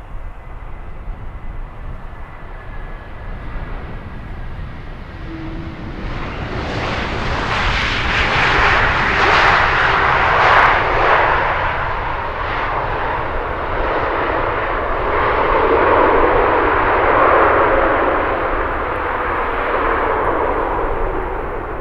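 Jet airliner's engines roaring as it passes close by: the roar swells about a quarter of the way in, is loudest and crackling for a few seconds, then holds before fading slightly near the end.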